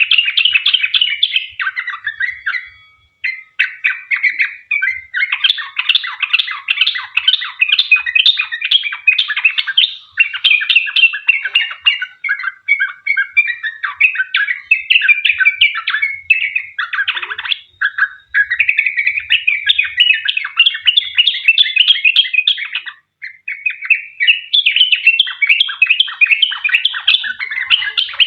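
Yellow-vented bulbul (trucukan) in full song: a long, fast run of bubbling, chattering notes with hardly a pause. There is a short break about three seconds in and another near the end.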